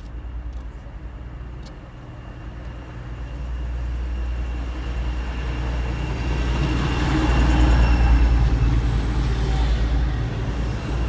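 A train passing close by, a low rumble that builds to its loudest about eight seconds in and then eases slightly.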